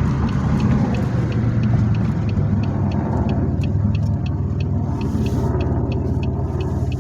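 2007 Pontiac Grand Prix GT's V6 engine and road noise heard from inside the cabin while driving: a steady low rumble, with a quick regular ticking of about three clicks a second over it.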